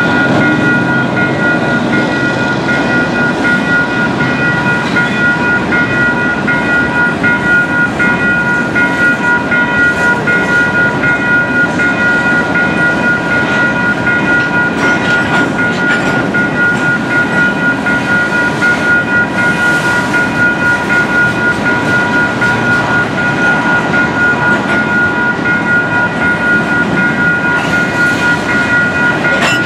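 CN freight train's covered hopper cars rolling steadily through a level crossing, steel wheels rumbling and clacking over the rails. The crossing signal's bell rings on in a steady repeating pattern over the train noise.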